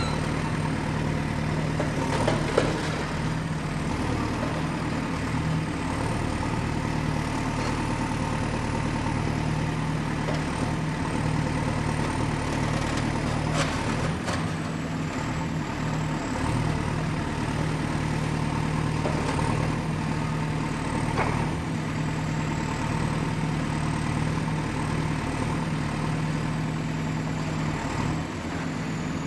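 Excavator's diesel engine running steadily under work, with a thin high whine above it and a few short knocks and clanks from the machine at work.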